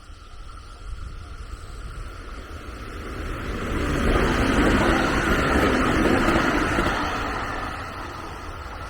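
A vehicle passing by: its running noise swells over a few seconds, peaks and fades away, over a steady chirring of insects.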